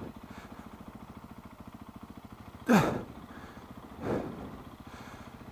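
KTM 690 single-cylinder motorcycle engine running at low revs with an even, pulsing beat as the bike is ridden slowly over rough ground. About three seconds in, a short loud cry from the rider falls in pitch, and a fainter vocal sound follows about a second later.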